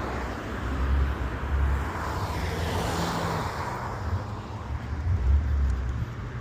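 A car driving past: its noise swells to a peak about three seconds in and then fades, over a steady low rumble.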